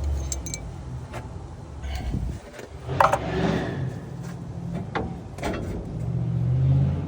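Metal hand tools clicking and clinking against the engine while spark plugs are tightened, in scattered irregular clicks with one sharper knock about three seconds in. A steady low rumble runs underneath.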